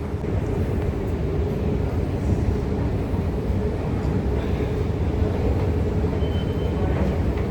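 Steady low vehicle rumble with a constant hum, and a brief thin high tone about six seconds in.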